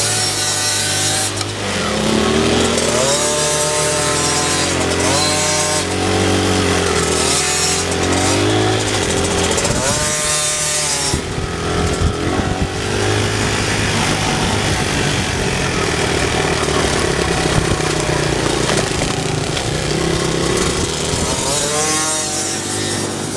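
Dirt bike engine running hard, its pitch rising and falling again and again as the throttle is opened and shut and gears change.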